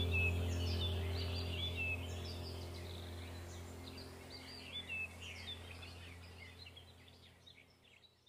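Several songbirds chirping and trilling over a low steady hum, the whole fading out slowly until nearly silent near the end.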